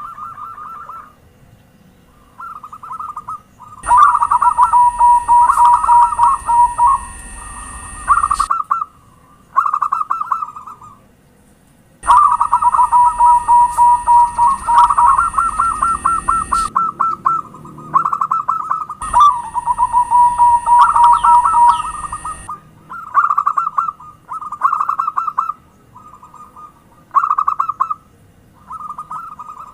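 Zebra doves (perkutut) cooing: repeated short phrases of rapid, pulsed trilling coos, one after another. During three stretches of a few seconds a steady high-pitched hiss runs beneath the coos.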